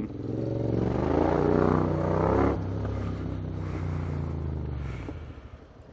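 Small motorcycle engine running again after losing power to a dud battery. It revs up over the first couple of seconds, then settles and fades away.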